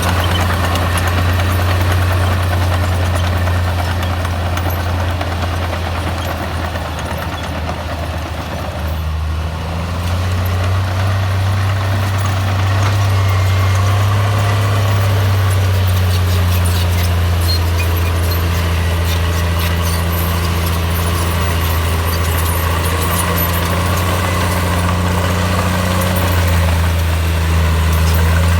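Heavy diesel engine of a Komatsu bulldozer running steadily with a deep drone. It eases off briefly about eight seconds in, then picks up again.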